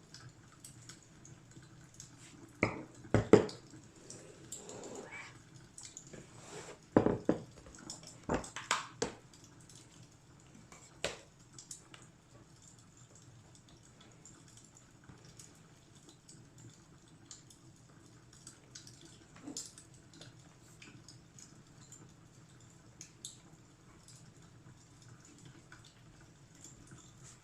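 Fireplace crackling: scattered small pops and snaps over a low steady hiss, with a few louder knocks in the first dozen seconds.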